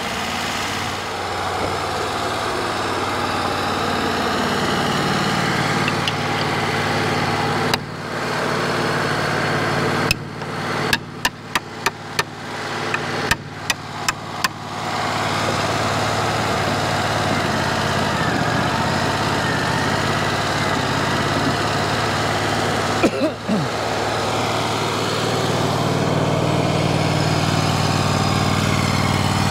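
Wood-Mizer portable sawmill engine idling steadily. A quick series of sharp knocks comes about ten to fifteen seconds in, and another knock a little later.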